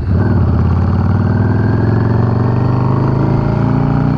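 Yamaha V-Star 650's V-twin engine running under way, its note rising slowly as the bike picks up speed. The note drops briefly at the end, like a gear change.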